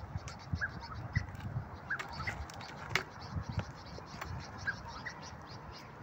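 Birds chirping in short, separate calls, about half a dozen times, over scattered clicks and low thumps.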